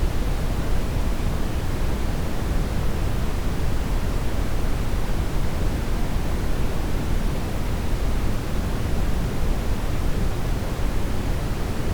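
Brown noise: a steady, even rushing hiss weighted heavily toward the bass.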